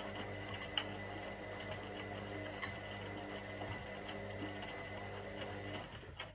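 Indesit IWC 71252 washing machine running with a steady hum and a thin high whine, with light irregular ticking and clicking over it. The sound cuts off suddenly at the very end as the machine pauses.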